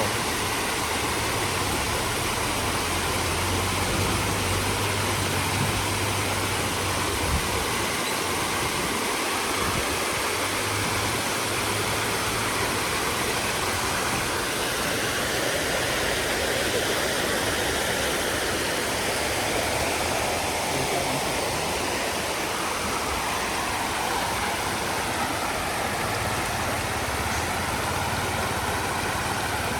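Steady rush of floodwater flowing hard, with a low engine-like hum that comes and goes underneath.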